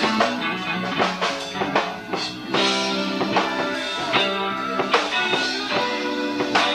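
Live band playing: guitar and bass guitar over a drum kit, with regular drum hits.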